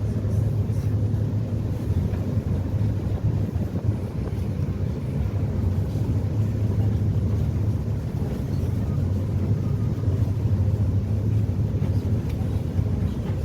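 Passenger catamaran ferry's engines running under way: a steady low drone with an even rushing noise over it.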